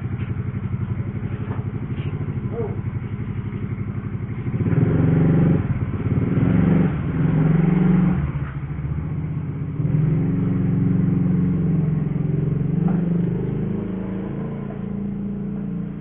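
Small engine running with a fast, even pulse, steady at first, then louder from about four and a half seconds in, with several swells before it eases.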